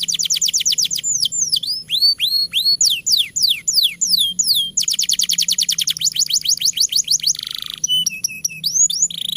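Domestic canary in full, long song: fast trills of rapid falling notes alternate with slower, drawn-out falling whistles. A short buzzy note comes near the end.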